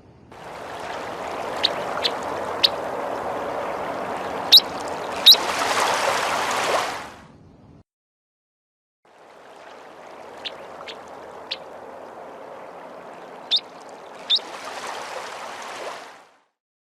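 Field recording of a plover: a steady wash of water-like noise with a few brief, sharp high notes. It is played twice, with a short silent gap about eight seconds in.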